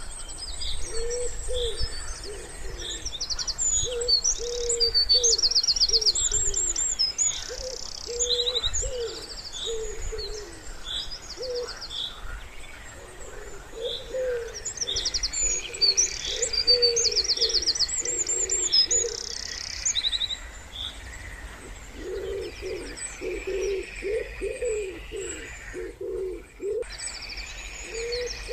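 Wood pigeon cooing in repeated low phrases, broken by two short pauses, while small songbirds sing high, rapid trills and chirps over it.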